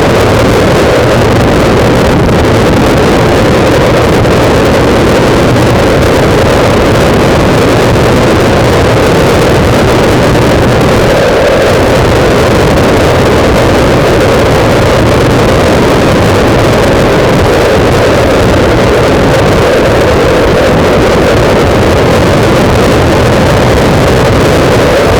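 Loud, steady wind buffeting the microphone of a camera mounted on a moving motorcycle, with the bike's engine running underneath.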